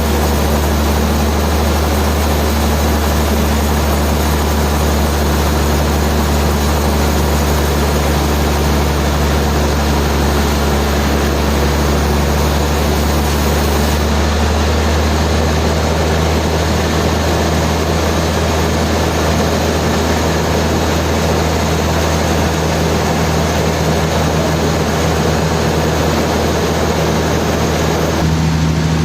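Heavy sawmill machinery running: a steady low hum with a constant noisy hiss over it. The highest hiss drops away about halfway through, and the hum shifts pitch near the end.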